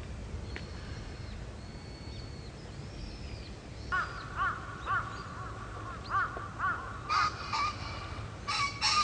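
Birds calling: a run of short, harsh caws, about two a second in groups, starting about four seconds in, with fainter high whistled calls before them, over a low steady rumble.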